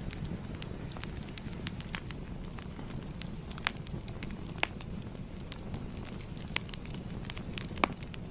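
Fire crackling: a steady low rumble with irregular sharp pops and snaps, one of the louder pops near the end.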